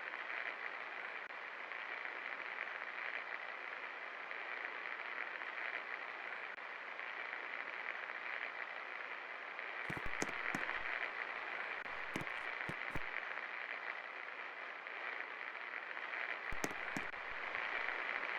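24-inch Best Electric Works Alpha ceiling fan running with a steady whoosh of moving air. There are a few short clicks about ten seconds in, again around twelve to thirteen seconds, and near the end.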